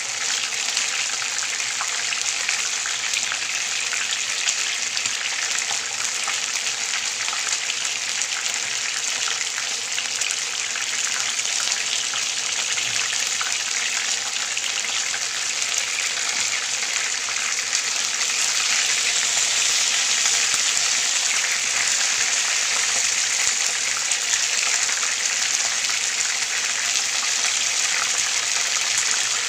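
Flour-breaded chicken pieces shallow-frying in hot oil in a nonstick pan: a steady, dense sizzle full of fine crackles. It grows a little louder about two-thirds of the way through.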